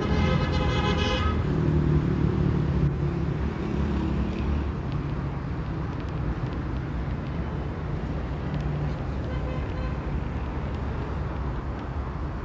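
Steady low rumble of a motor vehicle, with a short horn-like pitched toot at the start and a fainter one near the end.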